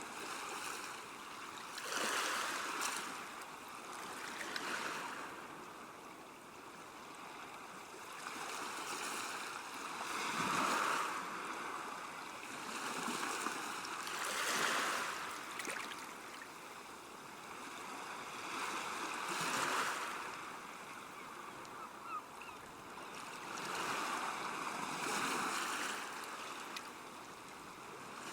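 Water lapping and washing at a river bank, a steady rush that swells and eases every two to five seconds.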